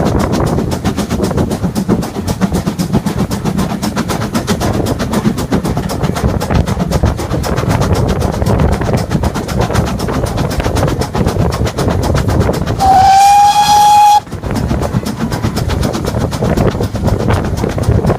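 Steam train running with a continuous rumble, and one whistle blast of about a second and a half, slightly rising at the start and then held, about thirteen seconds in.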